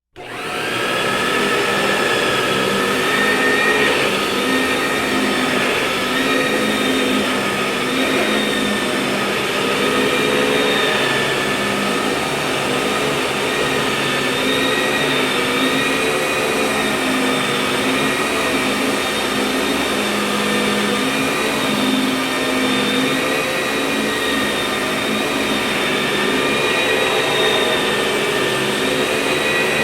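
Vacuum cleaner running steadily: a loud, constant rush of motor and airflow with several high whine tones that waver slightly. It comes up to full level within the first second.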